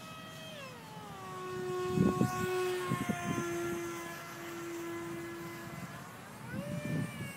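Electric ducted fan of a radio-controlled F-35 model jet whining in flight: its pitch drops as the throttle is eased back about half a second in, holds steady, then climbs again near the end as the throttle is opened. A few low thumps come through a couple of seconds in and again near the end.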